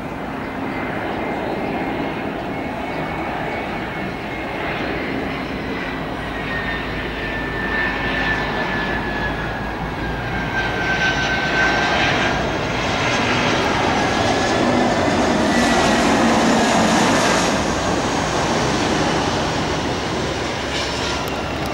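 Airliner on landing approach passing low overhead: engine roar with a steady whine that slowly drops in pitch, swelling to its loudest about three-quarters of the way through, then easing off.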